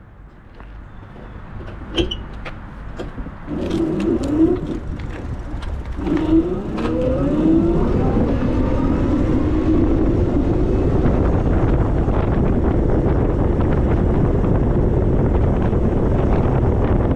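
E-bike's electric motor whining upward in pitch as the bike pulls away and gathers speed, twice, with scattered clicks and knocks. It then settles into steady loud wind and tyre noise at riding speed.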